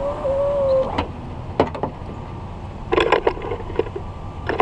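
A power window motor whines steadily, driving the glass down on a newly installed window regulator in a GM full-size pickup's front door, then cuts off sharply about a second in. A few sharp clicks and knocks follow, a cluster of them about three seconds in.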